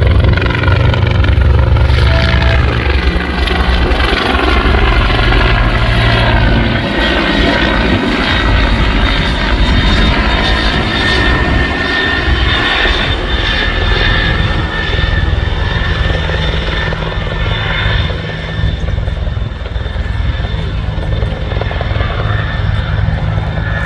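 Bell 412EP helicopter in flight: the beat of its four-blade main rotor and the whine of its twin turboshaft engines. The low rotor sound is heaviest for the first several seconds, and the whole sound slowly fades.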